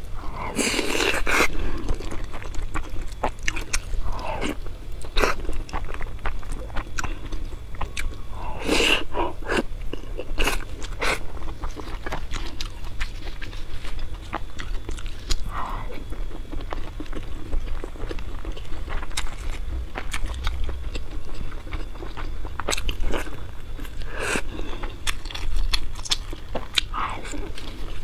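Close-miked chewing of a person eating, with frequent short smacking clicks of the mouth and a few louder bites.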